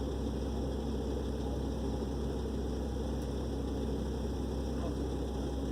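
Dump truck engine running steadily with a low, even drone.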